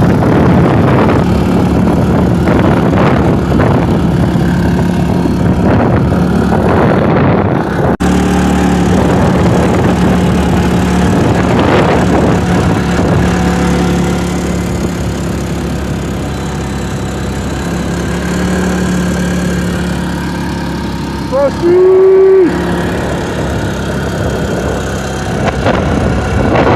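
Arctic Cat Alterra 700 ATV's single-cylinder engine running steadily under way. Near the end a short, loud, higher tone sounds for about a second.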